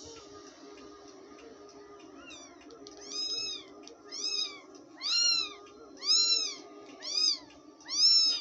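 Newborn kittens mewing: high, thin cries that rise and fall, about one a second, starting about two seconds in and growing louder.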